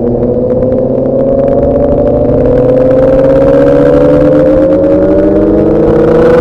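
Motorcycle engine accelerating in one gear, its note rising steadily in pitch without a break.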